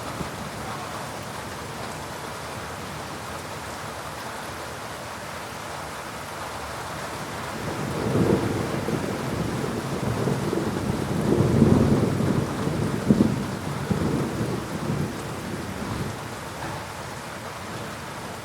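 Steady heavy rain, with a roll of thunder rumbling in about eight seconds in, peaking a few seconds later and fading away after about eight seconds.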